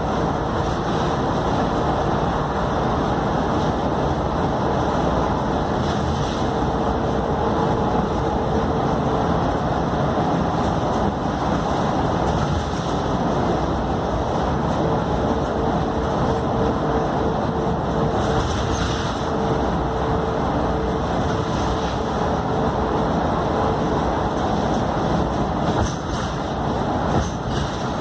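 Scania K310UD double-decker bus under way, with steady engine and road noise. A held whine sits over it, drops out about nine seconds in and comes back a few seconds later for another stretch.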